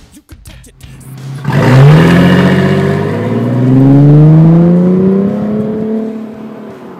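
2000 Ford Mustang's 3.8-litre V6 through a MAC dual exhaust conversion, revving up: the exhaust note comes in about a second and a half in and climbs steadily in pitch for several seconds before fading away near the end. Background music plays underneath before it starts.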